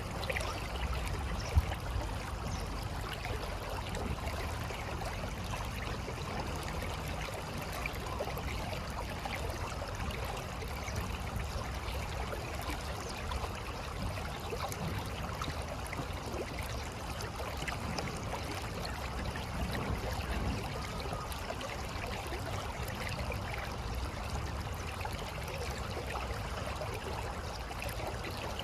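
River water flowing in a steady, even rush. A single sharp knock sounds about a second and a half in.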